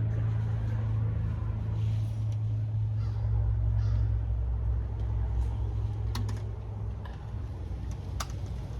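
A low, steady mechanical hum that swells in the middle and fades away near the end, with a couple of sharp clicks.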